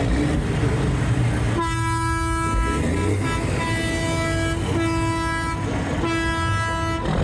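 A truck horn blowing three long blasts on one steady note, starting about a second and a half in, over the low running of idling engines.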